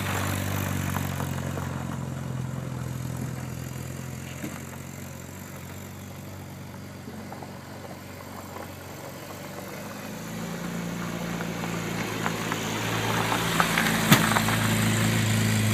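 Mini Moke's engine running steadily as the car drives away, its sound fading for several seconds, then growing louder again as it comes back, with a sharp click near the end.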